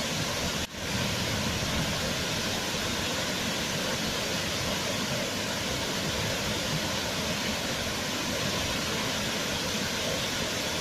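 Waterfall, a steady even rush of falling water, with a brief drop-out less than a second in.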